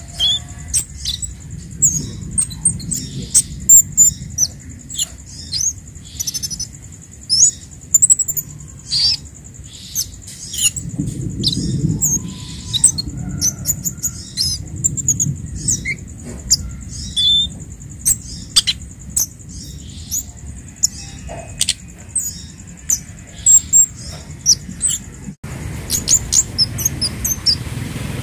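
Scarlet-headed flowerpecker (kemade) calling: a quick, irregular string of short, thin, high-pitched chirps and ticks over a low background rumble.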